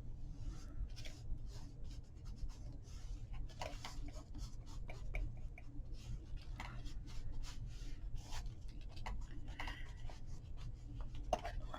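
Paper being handled and rubbed down on a journal page: scattered rustles, light rubs and small taps, over a steady low hum.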